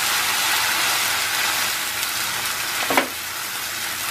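Wet onion-tomato paste sizzling in hot oil and butter in a kadhai as it is stirred with a spatula, with one brief sharp note about three seconds in.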